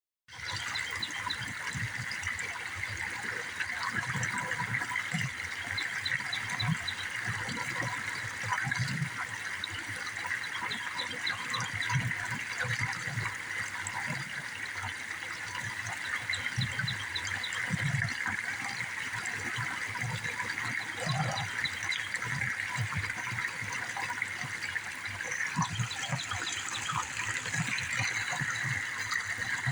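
Steady running water, like a small stream. Now and then there are short runs of high chirps.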